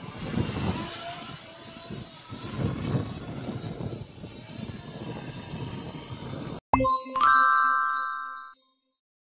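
An RC model's brushless motor, driven by a 120A ESC, running with a rough rumble and faint whine that shifts in pitch. About six and a half seconds in it cuts off abruptly; a click follows, then a short electronic chime jingle rings and fades out.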